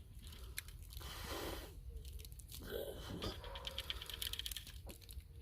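Dirt and dog hair vacuumed from a carpet being dumped out of the vacuum's container: rustling and pattering of loose debris, with a run of quick rattles around the middle.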